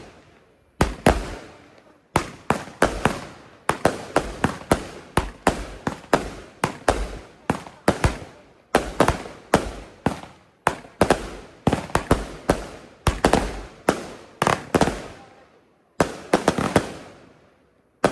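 200-gram consumer firework cakes firing a rapid string of sharp bangs, about two or three a second, each with a short fading echo, broken by a few brief pauses.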